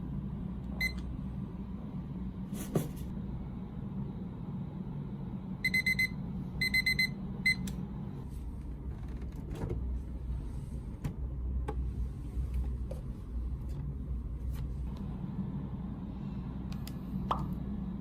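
Electronic beeping from an appliance: a single beep about a second in, then two quick runs of beeps around six and seven seconds in and one more short beep, over a steady low hum. A sharp click comes a few seconds in, with scattered light ticks afterwards.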